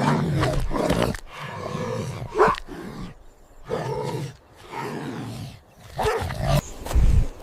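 A series of animal growls and roars: about six separate calls, each under a second long, with short pauses between.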